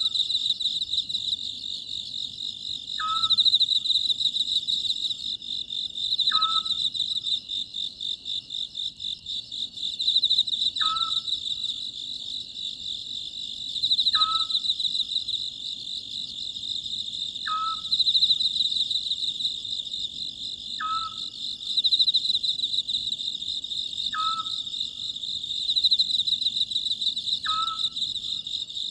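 Oriental scops owl calling, a short note repeated every three to four seconds, over a steady high trilling of crickets.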